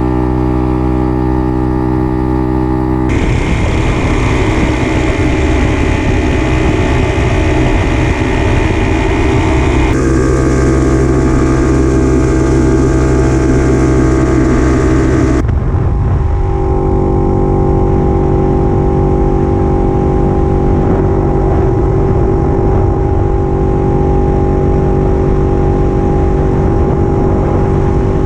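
The 1950s Puch 250 TF's split-single two-stroke engine running steadily while the motorcycle is ridden. Its note changes abruptly three times: about three, ten and fifteen seconds in.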